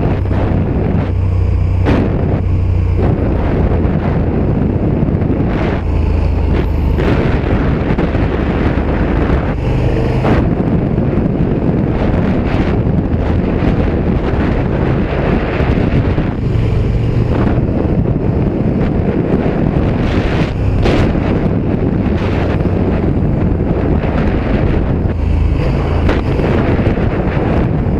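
Heavy wind noise on the microphone while riding a KTM 1290 Super Duke R EVO at speed, with the motorcycle's V-twin engine running underneath.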